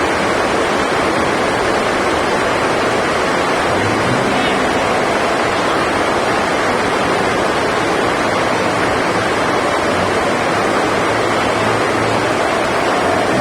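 Heavy rain on the sports hall's roof, a steady hiss with no let-up.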